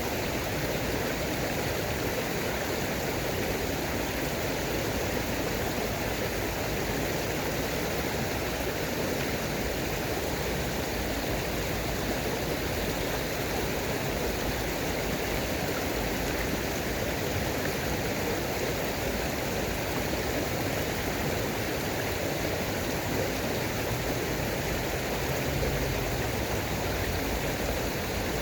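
Running water rushing steadily, as from a stream or small cascade.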